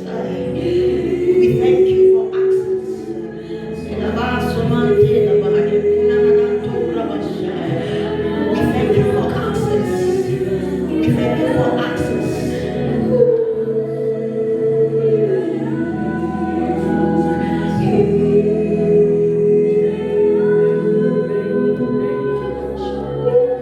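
A group of voices singing a slow worship song in long, held notes.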